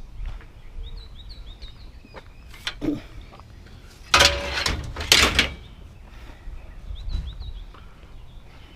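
Small birds chirping over a low wind rumble, with two loud bursts of clattering noise about a second apart midway.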